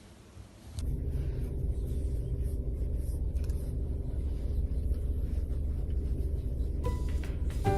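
A steady low rumble starting about a second in. Music with plucked notes comes in near the end.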